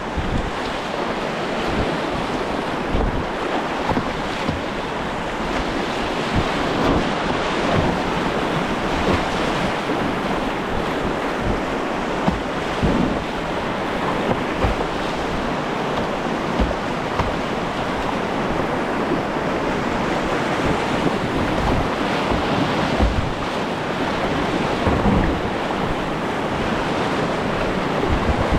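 Whitewater rushing steadily around a kayak on a river rapid, with short low buffets of wind or splash on the helmet-mounted microphone.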